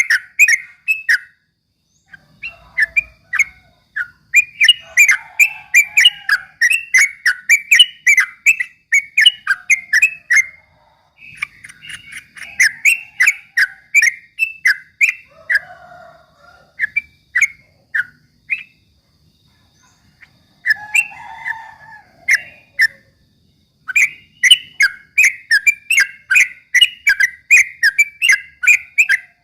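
Yellow-vented bulbul (trucuk) singing in fast rapid-fire 'ropel' phrases: quick runs of short chirping whistles, broken by brief pauses of a second or so.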